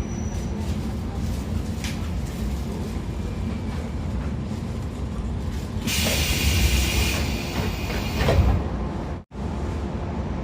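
Running noise inside a JR 113-series motor car: a steady low rumble from its MT54 DC traction motors and DT21B bogies on the rails. About six seconds in, a hiss sweeps in for about a second, followed by a louder thump; just after nine seconds the sound cuts out for an instant.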